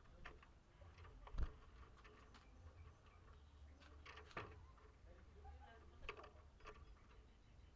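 Faint, irregular taps and clicks over a low steady hum, with one sharper knock about a second and a half in.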